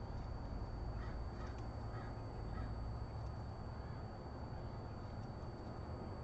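A bird calls faintly about four times in quick succession, between one and three seconds in, over a steady low rumble and a thin, steady high-pitched whine.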